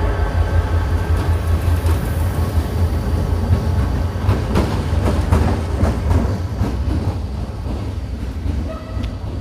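Passenger train running through the station with a heavy low rumble and wheels clacking over rail joints, gradually fading.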